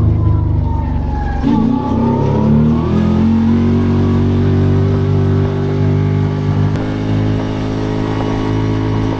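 Kawasaki Teryx 4 side-by-side engine winding down as the machine slows, its pitch falling over the first second or two, then running at a steady idle while stopped.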